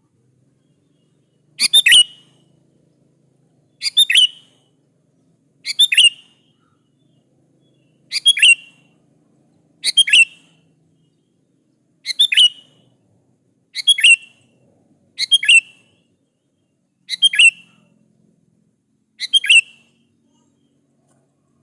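Sooty-headed bulbul (kutilang) calling: a short, sharp phrase of quick slurred notes repeated about every two seconds, ten times.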